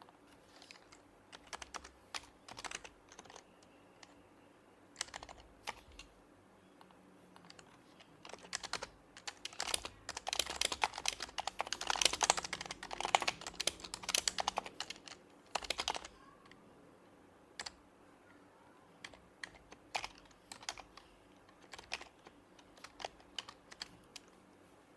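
Typing on an HHKB Professional HYBRID Type-S keyboard with its silenced Topre switches. Scattered keystrokes give way to a dense, faster run of typing about ten seconds in, lasting some six seconds, before slowing back to occasional keys.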